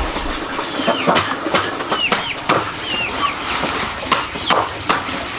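Birds chirping in short falling calls over a run of sharp knocks or taps, about three a second.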